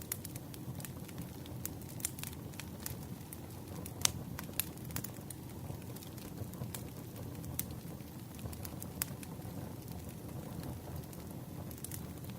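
Campfire crackling: burning wood with a steady low rumble and scattered sharp pops, one louder pop about four seconds in.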